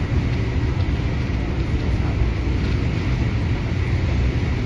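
MTR Adtranz-CAF electric multiple unit running along the Tung Chung line, heard from on board: a steady, even low rumble from the wheels and running gear, with a faint steady high tone above it.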